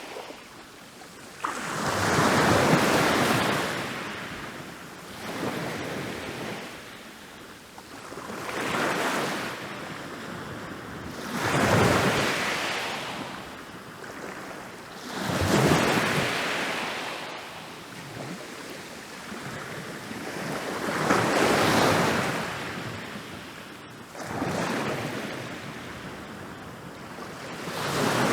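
Ocean waves breaking and washing onto a beach: a hiss of surf that swells and dies away over and over, a new wave every three to four seconds.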